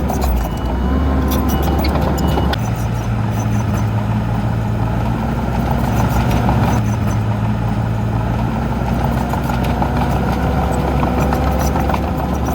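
Diesel engine of heavy earthmoving machinery running steadily, its low note stepping up about two and a half seconds in.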